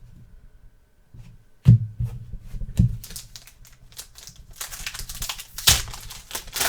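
Trading-card packaging and cards being handled: a sharp knock about a second and a half in, another a second later, then steady crinkling and crackling of wrapper.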